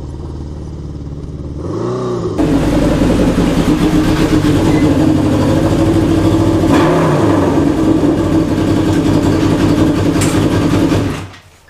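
1981 Honda CB750's air-cooled inline-four engine under way on the road, loud: a short rise and fall in pitch about two seconds in, then much louder and held fairly steady, with a brief dip about seven seconds in, before it cuts off near the end. The rider suspects it is not running on all cylinders or is lagging on one.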